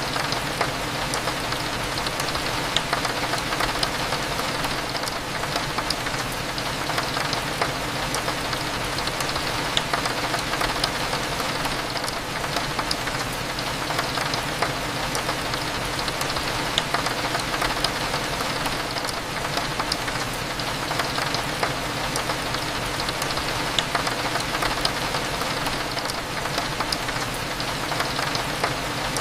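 Steady rain hitting a window, with many small drop ticks, over a low, steady cafe hum.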